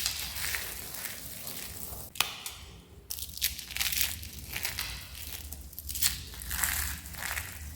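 Crispy dried soap being crushed, giving a run of irregular crackly crunches with a sharp snap about two seconds in.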